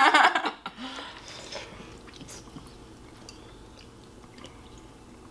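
Quiet close-up chewing and mouth sounds of a person eating pancakes, with a few faint clicks. A voice, laughing or speaking, trails off in the first half second.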